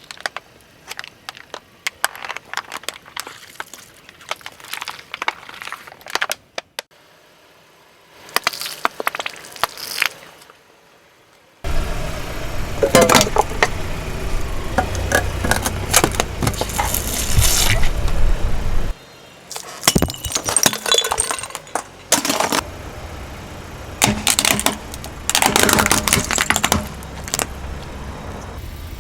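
A car's tyres rolling over and crushing brittle objects: many sharp cracks and crunches in quick succession. Through much of the second half a low engine rumble runs under them, breaking off and starting again abruptly.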